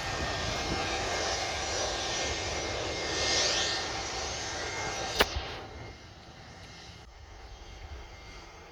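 Jet airliner engines running at an airport, a steady rushing noise that swells a little about three seconds in. A sharp click a little after five seconds, after which the sound drops noticeably quieter.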